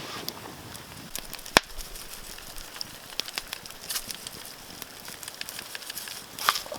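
Wood campfire crackling, with sharp irregular pops over a low hiss and one loud pop about a second and a half in.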